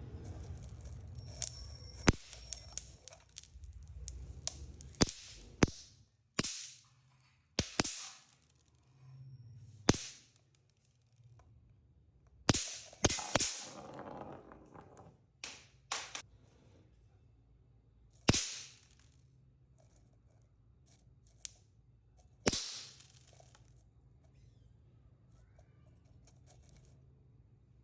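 Small firecrackers going off one after another: a dozen or so sharp bangs and pops at irregular intervals, several followed by a short fizzing hiss.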